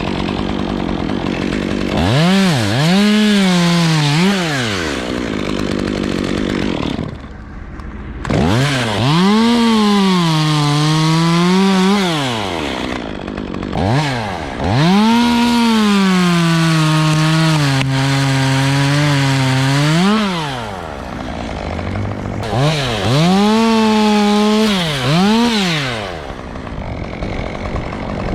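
Gasoline chainsaw cutting pine: revved to full throttle four times, its pitch sagging as it bites into the wood, then dropping back toward idle between cuts.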